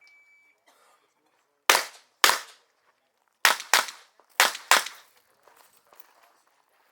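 A shot timer's start beep, then six competition revolver shots fired in three quick pairs over about three seconds.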